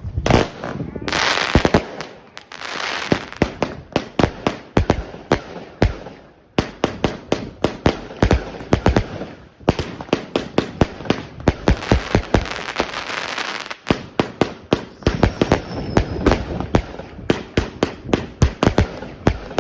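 Katan 'Tornado' firework going off: a long run of rapid sharp bangs mixed with crackling hiss, dropping briefly twice before the bangs resume.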